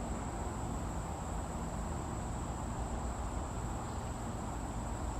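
Insects, crickets or katydids, chirring in a continuous high, even drone, over a steady low rumble.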